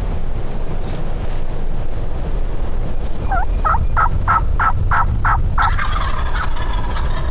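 Wild turkeys calling: a run of about eight evenly spaced yelps, then a rattling gobble near the end, over a steady low wind rumble.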